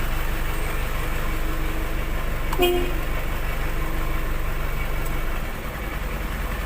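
Truck engine running steadily, with one short horn toot about two and a half seconds in; the engine's low rumble drops away shortly before the end.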